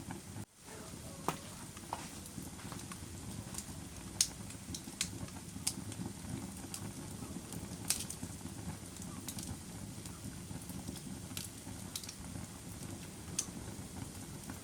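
Wood fire burning in a fireplace: a steady low rumble of the flames with irregular sharp crackles and pops from the burning logs. The sound cuts out for an instant about half a second in.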